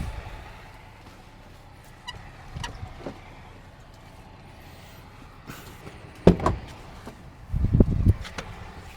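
A few scattered knocks and thuds over a low rumble: faint clicks early, one sharp knock about six seconds in, and a cluster of heavier thuds near the end.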